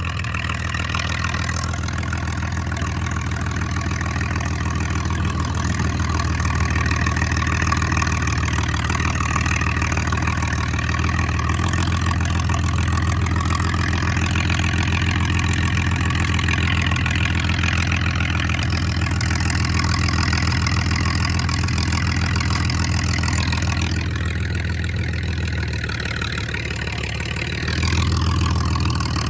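Straight-piped John Deere 4010 LP tractor's propane-fuelled six-cylinder engine running steadily, very loud with the exhaust coming right out the manifold. It dips a little about three-quarters through, then comes back up near the end.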